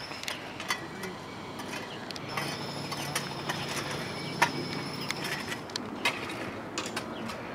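Work-site ambience: scattered light clicks and knocks, with a low steady engine-like hum for a few seconds in the middle.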